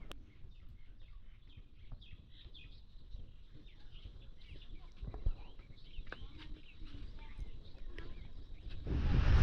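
Faint, repeated chirping of small birds, with scattered light clicks. Near the end a loud, even rushing noise sets in suddenly.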